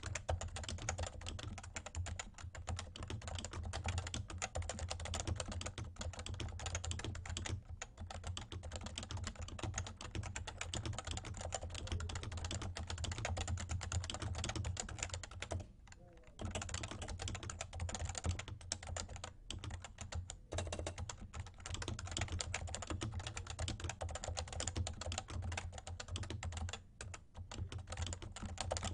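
Fast, continuous typing on a Realforce R2 Topre keyboard with light 30 g keys, the keystrokes running in quick streams with a few brief pauses, about 16 seconds and 27 seconds in. A steady low hum sits underneath.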